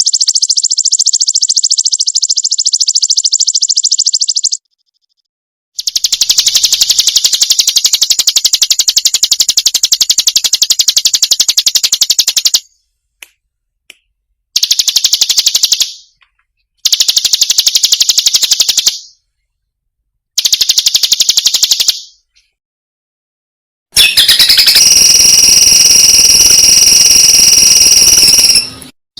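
Recorded songbird filler song: fast, dense, high-pitched chirping trills, played as several spliced clips cut off abruptly with dead silence between them. Near the end comes a steady, shrill buzzing tone.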